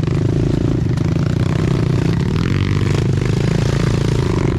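Pit bike engine running under way on a trail, its pitch rising and falling as the throttle is worked, with a few knocks in between.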